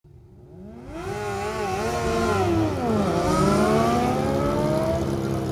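Drag-racing motorcycle engines revving and accelerating. The pitch climbs and wavers, drops sharply about three seconds in, then climbs steadily again.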